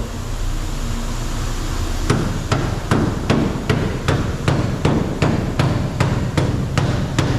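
Hammer blows on car body sheet metal in an even rhythm, about two and a half a second. The blows pause briefly and resume about two seconds in.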